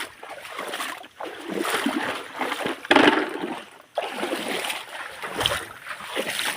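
Water splashing and sloshing in irregular surges, with a sharper, louder splash about three seconds in.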